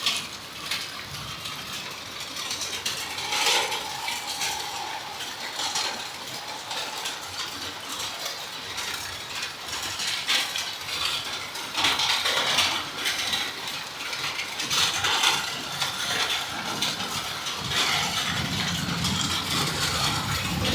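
Heavy rain falling, a steady hiss with irregular clattering of drops that swells and eases in waves.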